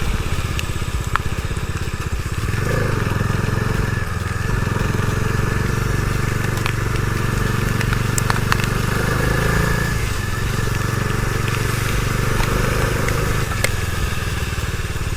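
Bajaj Dominar 250's single-cylinder engine running under way, with wind and road noise; the engine note rises and falls a few times as the throttle changes.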